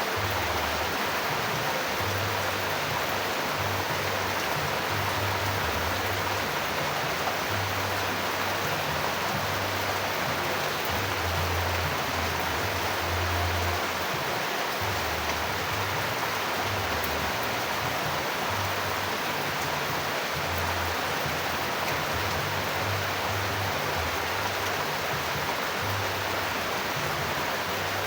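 Steady, even rain noise, a continuous hiss with no break, over an irregular low rumble that comes and goes.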